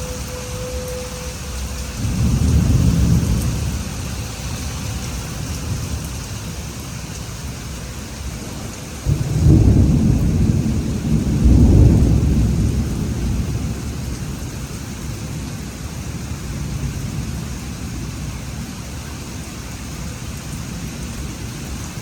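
Steady rain from a thunderstorm with rolling thunder: a low rumble about two seconds in, then a louder peal that breaks in suddenly about nine seconds in, swells twice and rolls away over several seconds.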